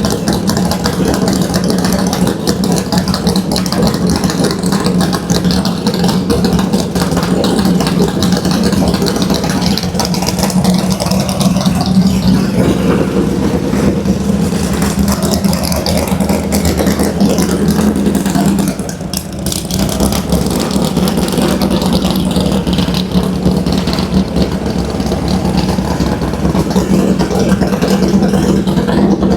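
1970 Dodge Challenger drag car's 440 Six Pack big-block V8 running at a steady idle, with a brief drop in level about nineteen seconds in.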